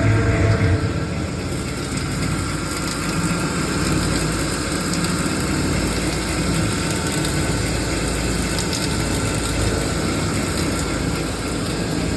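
Hollymatic 180-A mixer grinder running under its electric motor, a steady mechanical machine noise; a heavier low hum in the first second settles into an even running sound.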